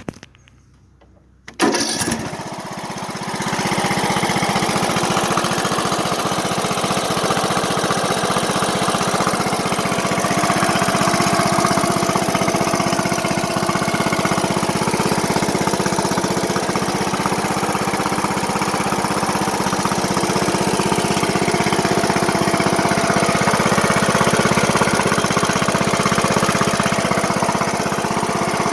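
Briggs and Stratton 15.5 HP single-cylinder engine starting after a couple of brief sounds, catching about two seconds in, then running at a steady speed without surging.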